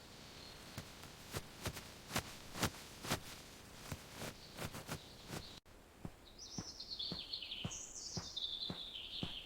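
Irregular sharp clicks and taps. From about six seconds in, a bird sings two warbling phrases, each sliding down in pitch.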